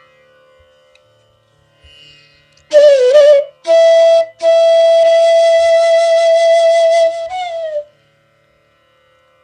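Bansuri bamboo flute playing a slow raga phrase over a faint steady drone. A short wavering, ornamented figure comes first, then a long held note about a second and a half in that slides down at the end and stops. For the last moments only the drone is left.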